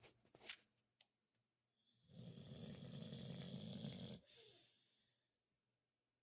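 A sleeping Staffy (pit bull-type dog) snoring: one long snore starts about two seconds in, cuts off sharply, and trails into a quieter breath out.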